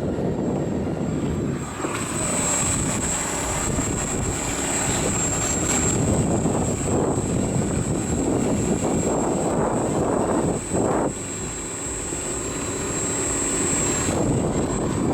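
Home-made trolling motor driving a boat, running steadily over a low rushing noise, with a thin high whine that comes in about two seconds in and stops near the end.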